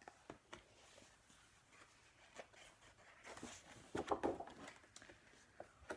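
Quiet handling noise from a picture book being opened and its pages turned: soft rustles and scattered small clicks. There is a faint breath or murmur about three to four seconds in.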